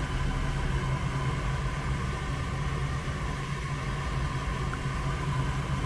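Draft inducer motor of a Goodman 80% gas furnace running at start-up, a steady hum with a thin, constant high tone above it. This is the first stage of the start sequence, before the hot surface igniter and gas valve come on.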